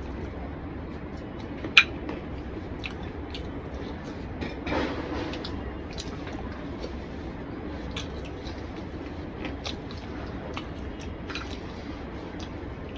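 A man eating rice and chicken curry with his hand: chewing and wet mouth smacks, with scattered sharp clicks, the loudest a little under two seconds in. Near the end, squishing as his fingers work the curried rice on the plate.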